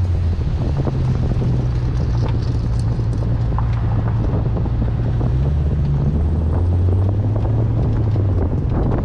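Infiniti G37S's 3.7-litre V6 engine pulling hard at track-day pace, its note stepping up and down in pitch, with wind noise over it.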